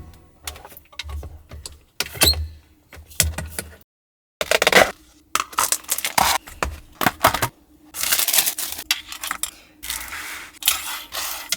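Irregular clicks, clinks and rustling as takeout food containers and packaging are handled and set out, broken by a short gap about four seconds in.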